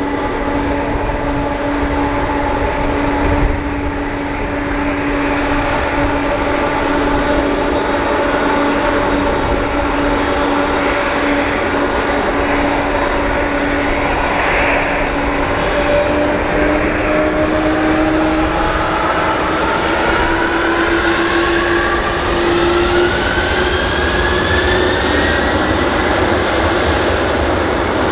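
Boeing 767-300's twin jet engines running with a steady whine over a broad roar. In the last third the whine rises in pitch as the engines spool up for take-off.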